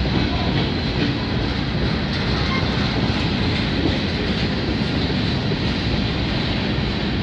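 Canadian Pacific freight train's covered hopper cars rolling past close by: steady noise of steel wheels running on the rails, with no break or change.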